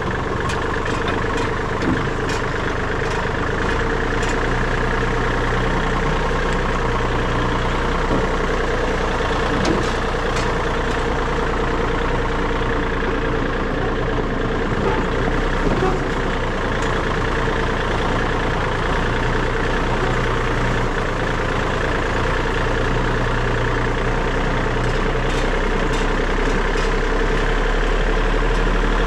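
Tractor engine running steadily, a constant drone that grows a little louder and deeper near the end.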